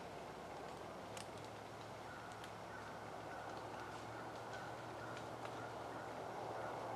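Faint, steady outdoor background noise with a few light, sharp ticks scattered through it.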